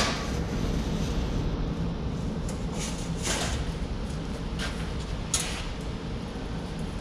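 Steady low shop hum with a few short scrapes and knocks of sheet metal being handled at a sheet-metal brake.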